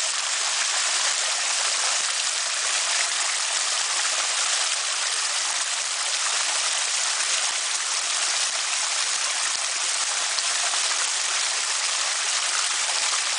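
Small creek cascades splashing and rushing over rocks: a steady, even water noise with no lull.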